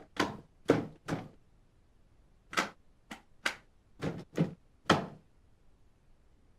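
A series of about ten sharp knocks in two irregular bursts, four close together and then six more after a short pause, each with a brief echoing tail.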